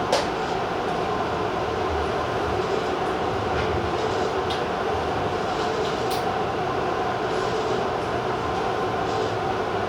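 Steady hum and running noise of a Tobu Railway TJ Liner electric train, with a sharp click right at the start and a few faint clicks later on.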